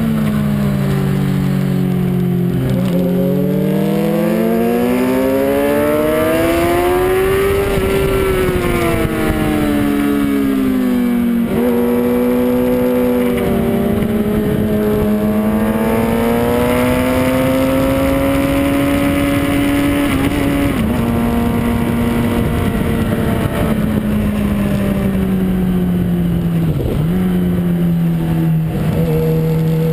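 Suzuki GSX-R sport bike's inline-four engine heard on board at track speed, its pitch climbing and falling as the throttle opens and closes through corners, with several sudden drops in pitch at gear changes or throttle closings. A steady rush of wind runs underneath.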